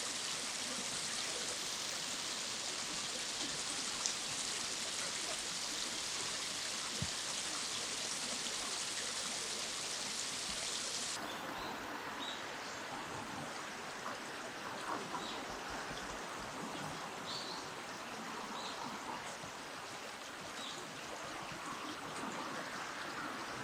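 Stream water rushing with a dense, steady hiss. About eleven seconds in it cuts suddenly to a quieter flow, over which a few faint, short, high chirps come every second or two.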